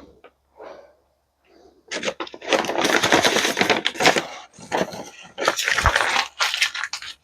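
Paper rustling and crackling as a folded wiring diagram is handled and opened out, loud and continuous from about two seconds in with a brief pause midway.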